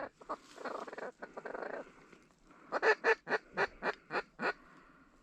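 Geese honking: a softer jumble of calls about a second in, then a quick run of about eight short honks, roughly four a second.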